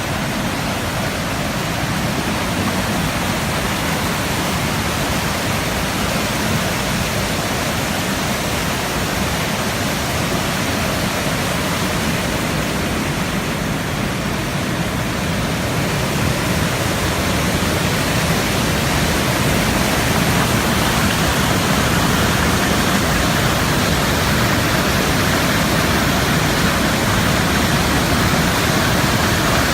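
A small river waterfall rushing steadily, water pouring over the drop in an even, loud noise that grows slightly louder about halfway through.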